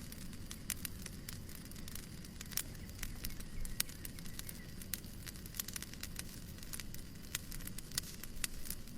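Fireplace crackling: irregular sharp pops and snaps, a few louder than the rest, over a steady low noise.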